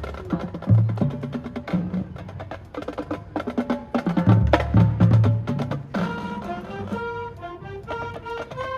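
High school marching band playing, led by the percussion: low drum hits and sharp clicking strokes in a driving rhythm. About six seconds in, the drums drop back and held melodic notes that step in pitch take over.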